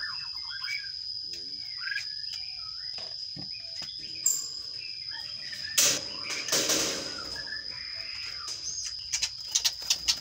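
Sparrows chirping in short, repeated calls, with a loud rustling flutter about six seconds in and a quick run of sharp clicks near the end.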